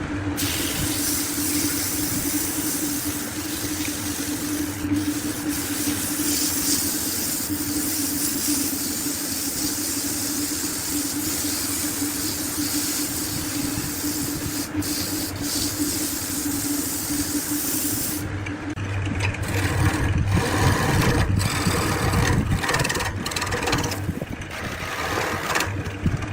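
Wood lathe running with a steady motor hum and a hiss from cutting or sanding the spinning wood. About 18 seconds in, the sound turns rougher and uneven, with repeated knocks.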